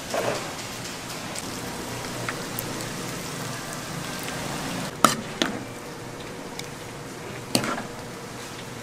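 Food frying in a stall's hot oil, a steady sizzle, with a few sharp clacks, the loudest about five seconds in and another a couple of seconds later.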